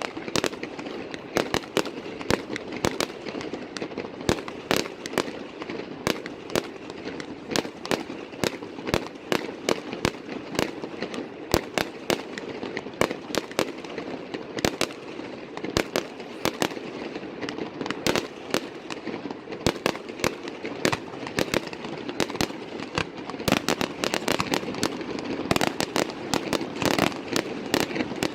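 Aerial fireworks going off: a dense, continuous stream of sharp bangs and crackles, several a second, over steady background noise.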